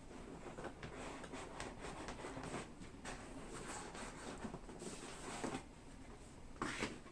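Faint rustling and light clicks of packaging being handled as a model ship kit box is opened and gone through, with a short louder rustle near the end.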